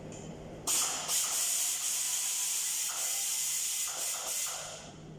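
A steady hiss of pressurised spray, starting about a second in and running for about four seconds before fading out.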